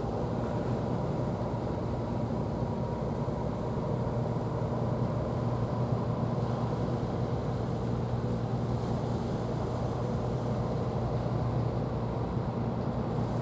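A steady engine drone holding one low pitch throughout, with a faint higher hum above it.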